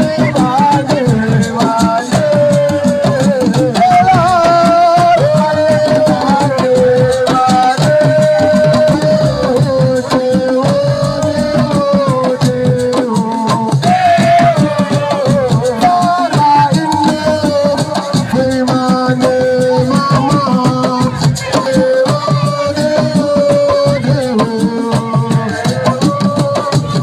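Senegalese assiko band music: dense hand-drum and rattle percussion under a held, wavering sung melody.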